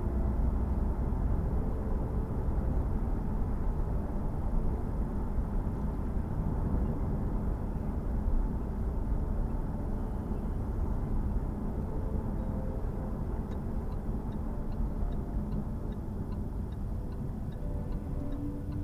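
Jaguar F-Type S's supercharged 3.0 litre V6 running with a steady low rumble. A light, regular ticking of about three ticks a second joins about two-thirds of the way in.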